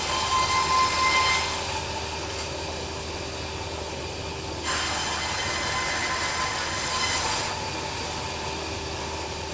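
Band sawmill running steadily, its blade giving a high squeal for the first second or so. Later a louder hissing stretch follows, from about five to seven and a half seconds in.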